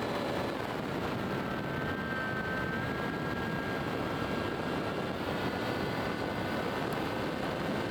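A boat's motor running steadily as the boat travels across the lake, with a constant rush of wind and water over it.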